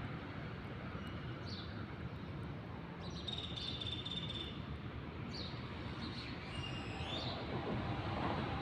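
Steady outdoor background noise with a few short, high bird chirps scattered through it, the longest a held note about three seconds in.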